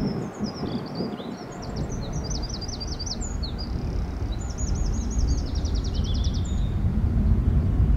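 A songbird singing in quick, high, repeated trilled phrases, loudest from about two seconds in until near the end, over a steady low rumble that builds slightly toward the end.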